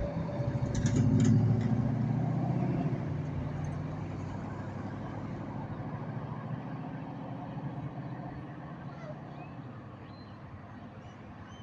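A motor vehicle passes close by in traffic, loudest about a second in, then its rumble fades steadily as it moves away.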